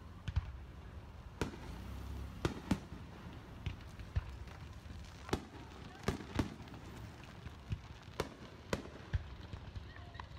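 Aerial firework shells bursting overhead in quick, irregular succession: a dozen or more sharp bangs, some in close pairs, over a low rumble.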